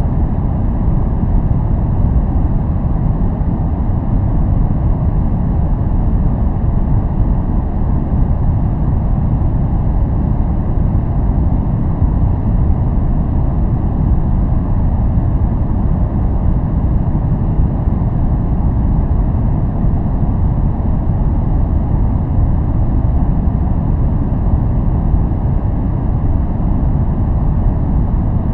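Steady noise track of the kind sold as white noise for focus, here deep-toned: an even rushing with most of its weight in the low range and no hiss on top, unchanging.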